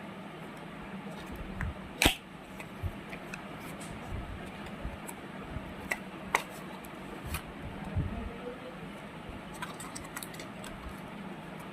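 Unboxing handling of a smartwatch box and its packaging: scattered clicks and taps, the loudest a sharp click about two seconds in, with further clicks around six to eight seconds in.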